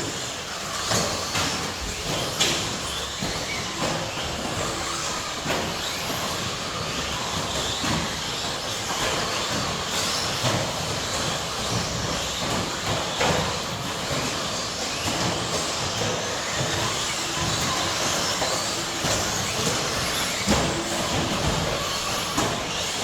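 A field of 1/10-scale electric RC stadium trucks with 13.5-turn brushless motors racing: a steady mix of motor whine and tyre noise, with scattered sharp clacks of trucks landing and hitting each other.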